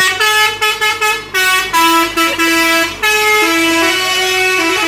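Concrete mixer truck's multi-tone musical air horn (a "telolet" horn) playing a tune: loud, with short and held notes stepping up and down in pitch.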